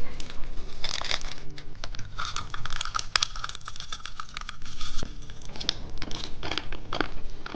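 Plastic candy packaging crinkling and tearing as it is handled and opened, with many small irregular crackles.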